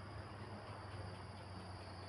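Faint, steady wind noise, with a thin, steady high tone and a low hum underneath.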